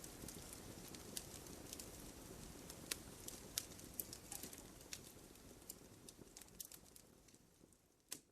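Wood fire in a fireplace crackling, with frequent sharp pops over a low rush of burning, fading steadily in the second half. There is one last louder pop near the end.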